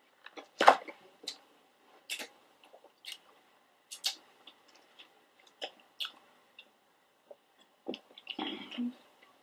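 Close-up chewing of pizza: scattered sharp, wet mouth clicks and smacks, the loudest a little under a second in, with a short rustly breath-like patch near the end.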